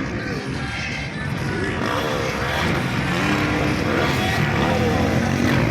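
Motocross bike engines racing, revving up and down, getting louder from about two seconds in.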